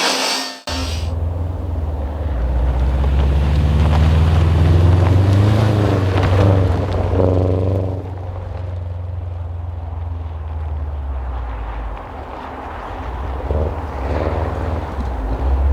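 Rally car engine revving and easing on a snow stage, its pitch rising and falling a few times, under heavy wind rumble on the microphone. The sound breaks off abruptly under a second in, where the clip cuts.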